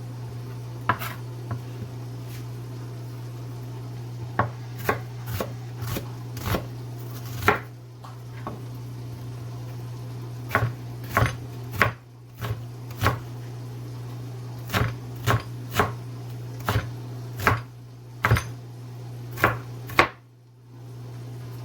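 Knife chopping onion, about twenty sharp, uneven strokes with short pauses between runs, over a steady low hum.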